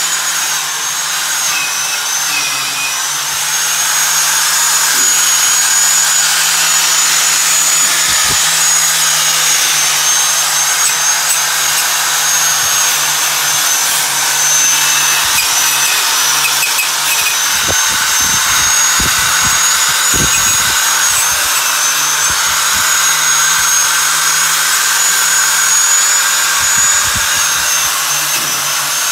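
Electric grinder running continuously on steel baler parts, a high whine that dips and wavers slightly as it is pressed into the metal, over a steady rasping hiss, to clean off rust for priming.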